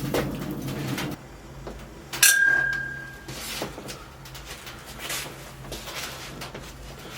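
A low hum cuts off about a second in. Then comes a sharp clink of kitchenware that rings on at one clear pitch for about a second, among small knocks and clicks of things being handled.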